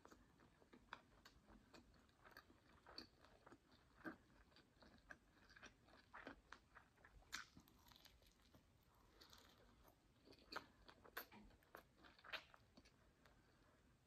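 Faint close-miked eating sounds of a person biting and chewing meat off a grilled chicken drumstick: irregular soft mouth clicks and bites, several a second, with a few louder ones.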